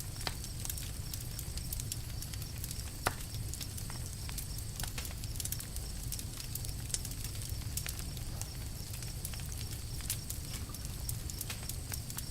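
Campfire crackling: frequent irregular sharp pops and snaps of wood burning, one louder pop about three seconds in, over a low steady rumble.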